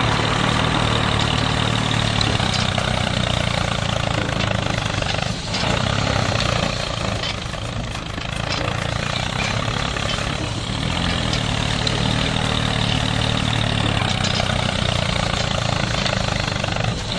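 Engine running steadily, a low drone with a dense rattly noise above it, dipping briefly in loudness a few times.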